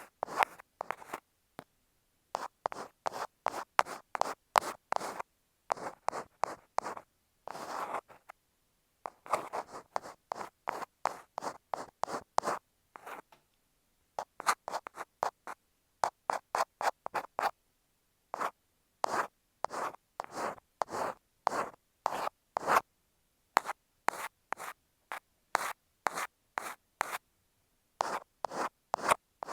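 Ear pick scraping directly on an earphone microphone in quick runs of short scratching strokes, about four or five a second, with brief pauses between runs.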